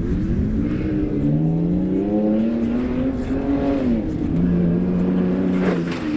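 Pickup truck engine pulling away, its pitch climbing for about three seconds, then dropping at a gear change and holding steady, over road and wind rumble.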